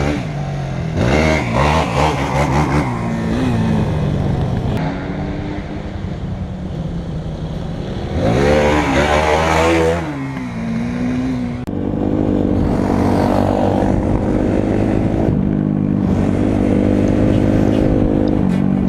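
Off-road motorcycle and quad engines revving, the pitch sweeping up and down in sharp bursts a second in and again about halfway through, then holding a steady higher drone to the end.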